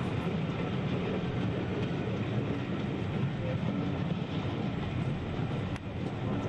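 Steam-hauled passenger train rolling over pointwork, heard from an open carriage window: a steady rumble of wheels on rail with clickety-clack over the joints and crossings. There is one brief sharp click shortly before the end.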